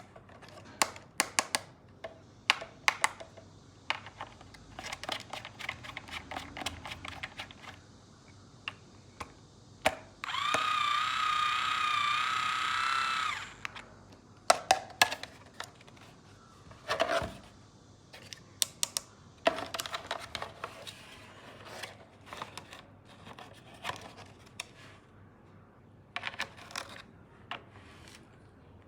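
Plastic clicks and taps of toy tools being handled, and about ten seconds in a battery-powered toy power tool's small motor runs with a steady whine for about three seconds.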